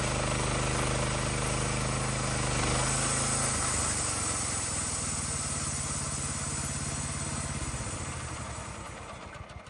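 Tractor engine running. Its note drops about four seconds in, and the sound fades away near the end.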